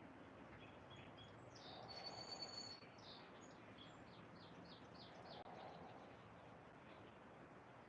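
Faint bird song over a steady background hiss: a songbird holds a high whistle, then gives a quick run of short falling notes, about three a second. The bird falls silent about halfway through.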